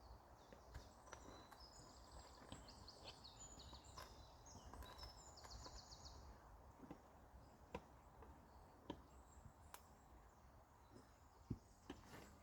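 Faint outdoor ambience with small songbirds singing high, quick trills, mostly in the first half, and scattered light clicks and knocks.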